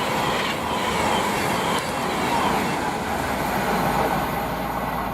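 Class 390 Pendolino electric train passing at speed: a steady rush of wheel and air noise that eases off near the end.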